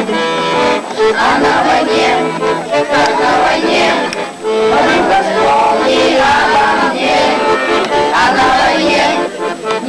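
Live music: an accordion holding steady notes while a group of voices sings along loudly.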